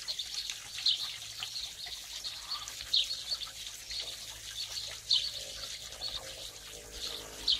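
A songbird repeating a short high chirp about every two seconds, over a steady trickle of water.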